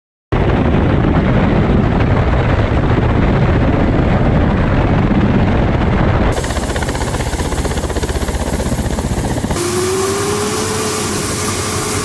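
Ka-52 attack helicopter's rotors and engines running loud and steady, with abrupt changes in the sound about six and nine and a half seconds in; in the last two seconds a steady hum rises slightly in pitch.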